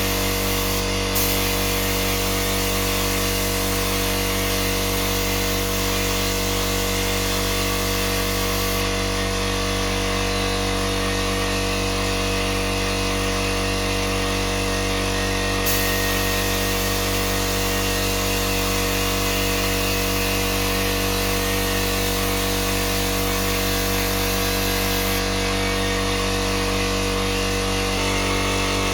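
A motor-driven power tool running steadily, a constant hum with hiss, with no change in speed.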